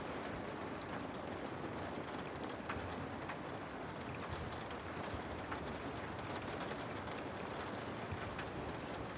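Steady rain falling on a window, an even hiss with scattered faint drop ticks.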